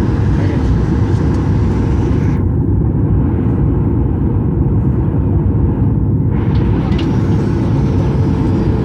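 Loud, steady cabin noise of a Boeing 737-800 heard from inside the cabin: the deep rumble of its CFM56 engines and airflow, with a constant hum and no distinct events. The hiss on top thins out for a few seconds in the middle.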